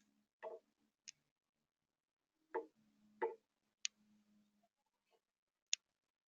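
Faint, scattered taps and clicks, one every second or so: three dull knocks and three very short, sharp high clicks, with silence between them.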